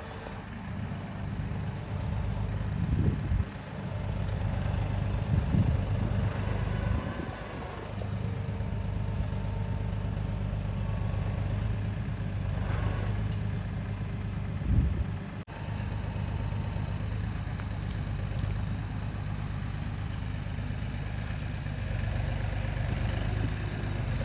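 Farm tractor engine running steadily during hay bale work, with a few brief louder swells and a short break partway through.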